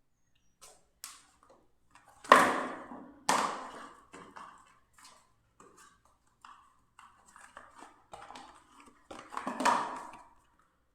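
Handling sounds from unboxing the belt: light clicks and taps, with two loud knocks that ring briefly about two and three seconds in, and another run of knocks near the end.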